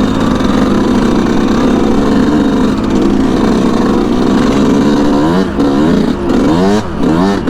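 2019 Yamaha YZ125 two-stroke dirt bike engine with an FMF Turbine Core 2 pipe running steadily under the rider. From about five seconds in it revs up in several quick rising sweeps, each ending in a drop, as it is shifted up through the gears.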